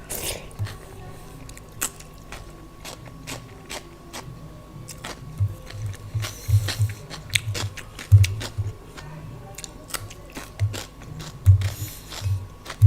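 Close-miked eating of rice, daal and salad: chewing with frequent sharp, wet mouth clicks and crunches, and clusters of low thuds.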